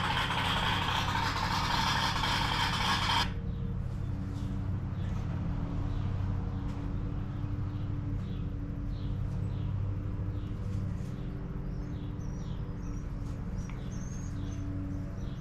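Dodge 440 big-block V8 idling steadily through an open exhaust with no mufflers fitted. A loud hiss stops abruptly about three seconds in, and birds chirp faintly in the background later on.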